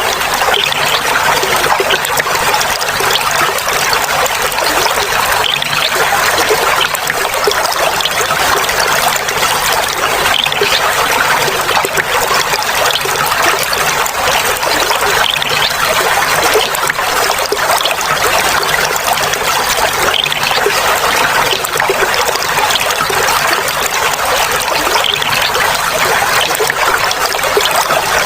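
Clear water flowing and trickling steadily, a continuous splashing babble.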